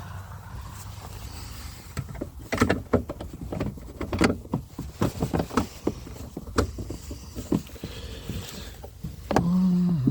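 Irregular sharp plastic clicks and knocks as a car's taillight assembly is pried and worked loose from its clips, over a steady low background rumble, with a short low hum near the end.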